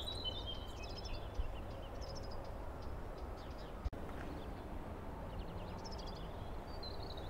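Small birds chirping and trilling now and then, over a steady low hum of outdoor background noise.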